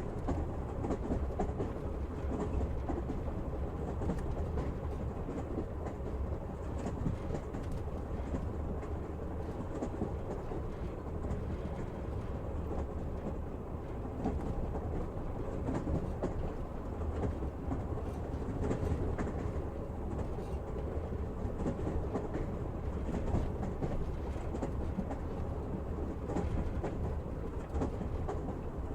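Train running steadily, heard from inside the carriage: a continuous low rumble with the wheels clacking over the rails.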